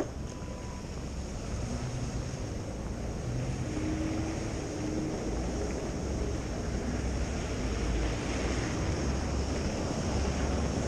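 Wind buffeting the microphone over a steady low rumble of city traffic, slowly getting louder, with one sharp click right at the start.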